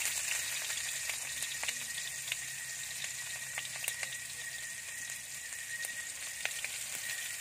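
Chopped garlic and onion sizzling in hot oil in a wok, a steady hiss with scattered sharp crackles.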